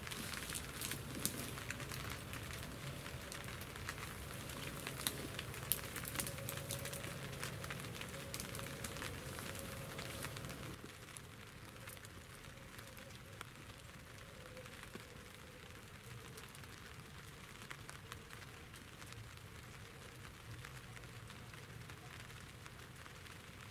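Light rain pattering on a fabric hunting ground blind, with scattered sharp drop ticks over a soft steady patter. The patter eases and grows quieter about eleven seconds in.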